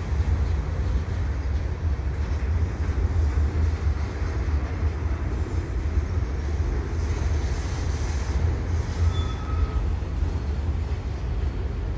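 A CN freight train's cars rolling slowly across a railway overpass: a steady low rumble. A brief faint squeal comes about nine seconds in.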